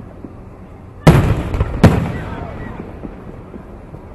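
Aerial fireworks shells bursting: two sharp booms, about a second in and again under a second later, each rumbling and echoing away.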